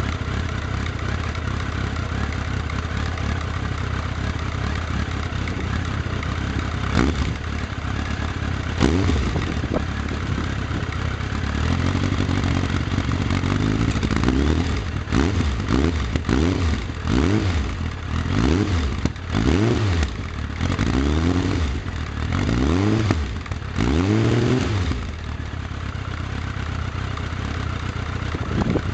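Suzuki GSF1200 Bandit K4's air/oil-cooled inline-four engine running through an aftermarket stainless steel oval midi exhaust. It idles steadily, is blipped twice, then has the throttle blipped about ten times in quick succession through the middle, and settles back to idle.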